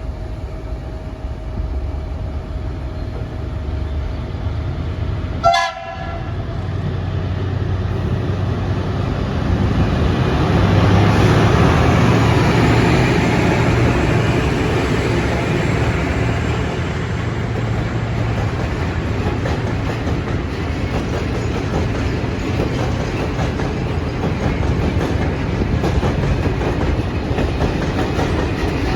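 A train passing: a short blast of the locomotive horn about five seconds in, then the rumble of the train swelling as it goes by, with wheels clattering over the rail joints.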